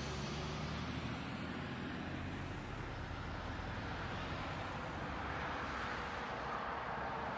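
Steady engine and road noise of a vehicle driving in traffic, with no sudden impacts.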